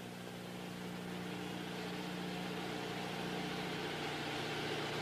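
Steady low hum of an idling vehicle engine with traffic noise, growing slightly louder over the first couple of seconds.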